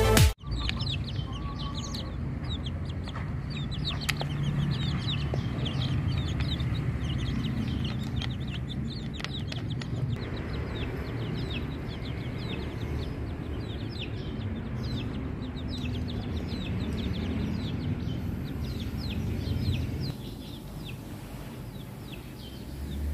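Many quick, high, falling chirps from birds, over a steady low background rumble; the chirping thins out and the sound gets quieter about twenty seconds in.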